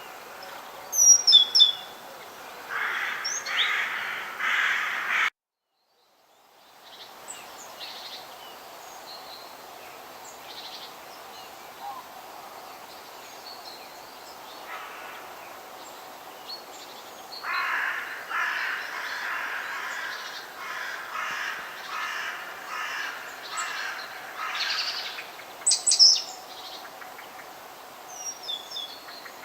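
Forest bird ambience: short high chirps and two stretches of harsh, rapidly repeated calls over a steady low background hiss. The sound cuts out completely for about a second, five seconds in.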